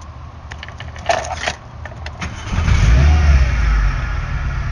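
Car engine with a suspected misfire: a low rumble with a few clicks about a second in, then the engine surges loudly about halfway through and settles into a rough idle. The owner suspects a misfiring spark plug, one cylinder not firing, behind the excessive shaking.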